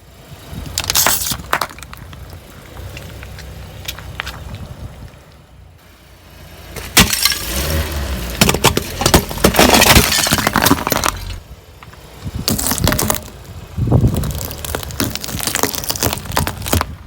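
A car's tyres rolling over brittle objects and crushing them: several bouts of cracking and crunching, the longest and loudest in the middle, over the low rumble of the car.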